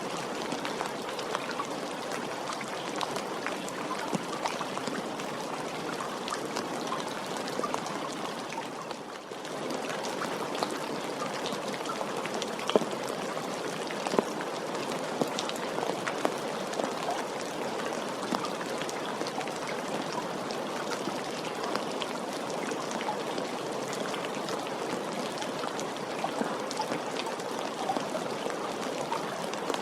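Steady rain falling, with many separate drop hits through the hiss; the level dips briefly about nine seconds in, then resumes.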